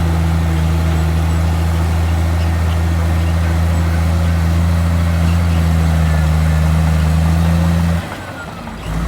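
Heavy diesel engine running steadily with a deep, even hum. The sound drops off suddenly about eight seconds in and comes back a second later.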